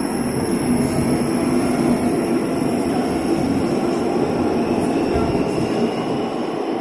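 'Neva' metro train running through a tunnel, heard from inside the car: a loud, steady rumble of wheels and running gear, with a faint whine that rises in pitch during the second half.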